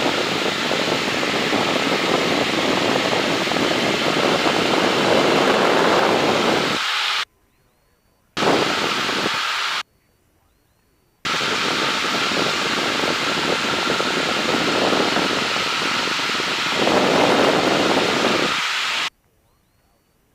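Cabin noise of a light single-engine airplane in flight, a steady drone of engine, propeller and rushing air, heard through the intercom or headset feed. It cuts off abruptly to near silence about seven seconds in, comes back briefly, cuts off again, returns, and stops about a second before the end.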